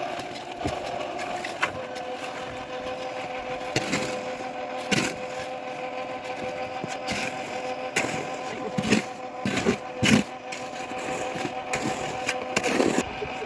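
A small engine running steadily, with a series of knocks and scrapes over it.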